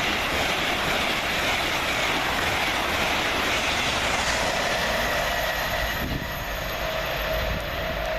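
LNER Class 801 Azuma electric multiple unit passing: a steady loud rush of wheel and air noise with a faint whine, easing a little after about six seconds.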